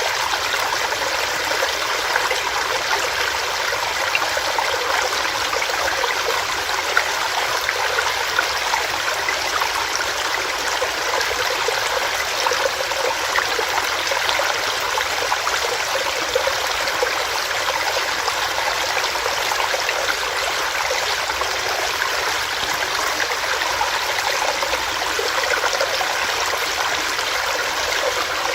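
Small stream running over rocks: a steady rush of water with small splashes and burbles.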